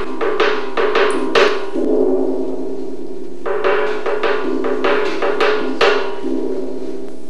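Live percussion music: quick runs of sharp, knocking strokes over a steady ringing tone, with a pause in the strokes in the middle.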